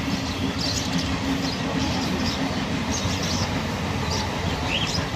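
Small caged birds chirping in short high calls over a steady low rumble.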